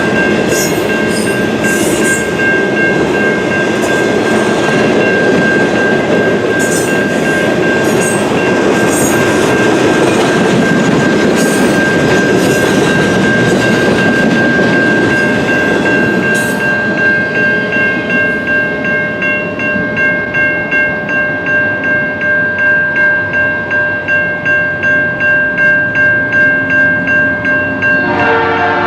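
A freight train rolling past a grade crossing, its wheels clacking over the rail joints over a heavy rumble that dies away about halfway through. A crossing bell rings steadily throughout, standing out clearly once the train has gone, and a diesel locomotive's multi-note horn sounds near the end.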